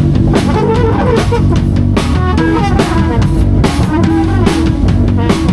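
A live band improvising, with a drum kit keeping a steady beat under a pitched melodic line, probably guitar.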